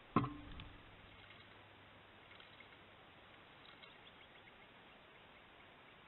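A single sharp knock just after the start, dying away within half a second, then faint short high chirps from noisy miners twice, around two and four seconds in.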